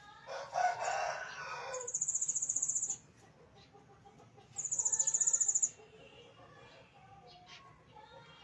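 A rooster crows once near the start, followed by two rapid, very high-pitched pulsing trills of about a second each, a second and a half apart.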